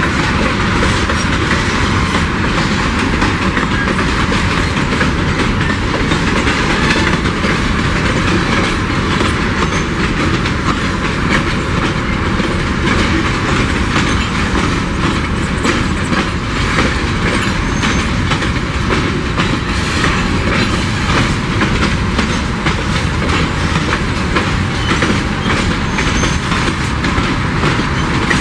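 Empty freight wagons of a long pulp train rolling past on the rails: a steady loud rumble of wheels with repeated clicking over the rail joints.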